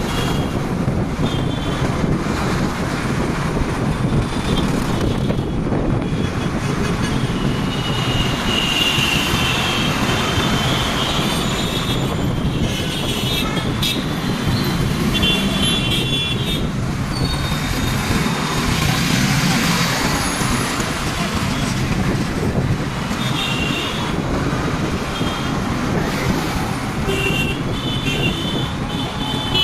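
Busy road traffic with a steady engine and road rumble, heard from a motorbike ride. Vehicle horns honk in short toots, several about a third of the way through, again around the middle, and a cluster near the end.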